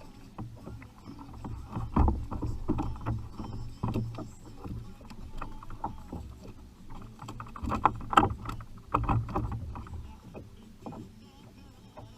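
Irregular knocks and bumps on a fishing kayak, loudest about two seconds in and again around eight seconds in.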